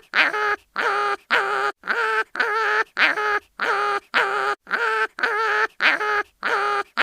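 Cartoon sound effect of an animal crying in pain: short, high, wavering cries repeated about twice a second.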